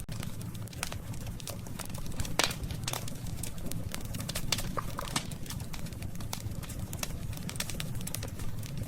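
Wood campfire crackling, with irregular sharp pops and snaps over a steady low rumble of the flames; one louder pop about two and a half seconds in.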